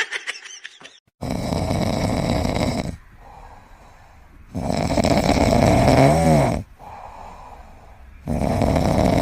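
A pet snoring: three long snores about three and a half seconds apart, the middle one with a wavering whistling tone in it.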